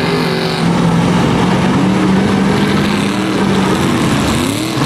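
Truck engines running with a steady low drone and a wash of loud noise over it.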